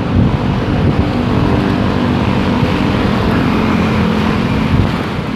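Road traffic: engines of passing cars and motorcycles with a steady engine hum in the middle stretch, over a heavy low rumble of wind on the microphone.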